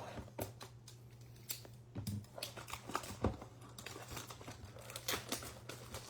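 Trading-card blaster box being torn open, its plastic wrapping crinkling and tearing in many sharp crackles.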